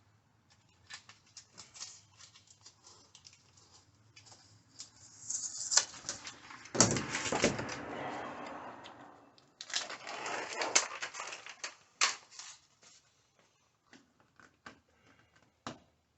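Hands-on work noise: scattered clicks and taps, with two longer stretches of rustling or scraping about five seconds and ten seconds in.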